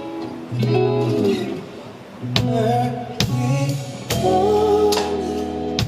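Instrumental intro of a slow ballad played live, led by guitar chords, with several sharp hits cutting through the chords.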